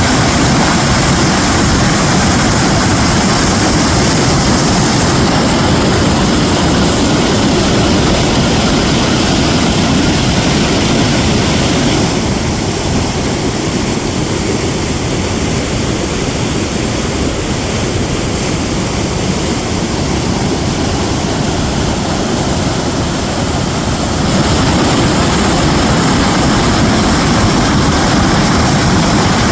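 Loud, steady rushing water of a fast-flowing stream. The sound drops slightly in level from about twelve seconds in and comes back up around twenty-four seconds.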